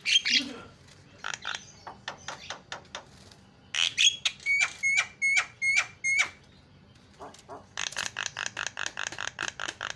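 Javan myna giving harsh, chattering calls in bursts: a loud call at the start, then runs of short sharp notes, and near the end a fast rattling series of about seven notes a second.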